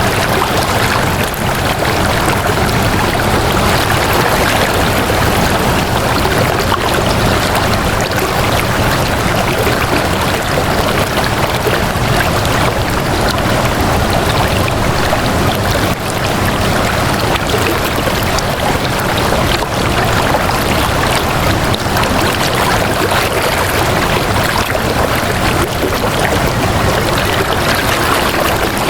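Water flowing steadily, a continuous even rushing like a stream, with no pauses or changes in level.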